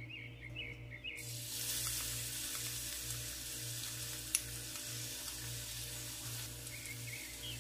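Chopped garlic and ginger sizzling in hot oil in a nonstick frying pan. The sizzle starts suddenly about a second in and stays steady, with one sharp click midway.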